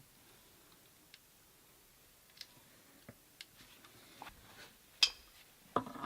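Sparse small clicks and taps of metal plumbing fittings and hand tools being handled, with a sharper click about five seconds in and a short clatter near the end as a threaded nut is worked onto the pump fitting.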